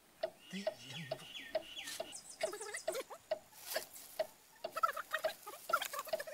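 Birds chirping in short high calls, in two bouts, over a steady ticking at about two to three ticks a second.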